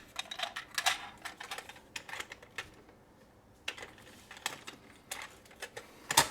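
Small plastic toys being handled: irregular clicks and taps, with a sharper knock near the end.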